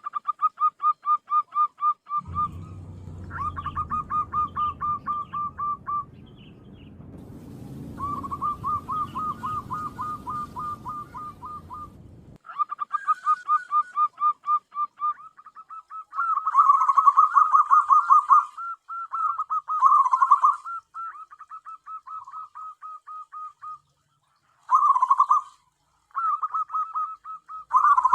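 Zebra dove (perkutut) calling: runs of short, rapidly repeated coo notes, about six or seven a second, each run lasting a few seconds with brief breaks between. A low rumble sits under the calls for the first dozen seconds.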